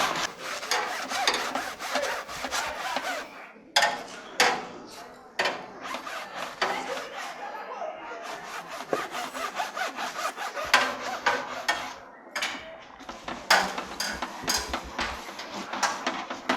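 Rough scraping and rubbing strokes, repeated irregularly, with a few sharper knocks among them.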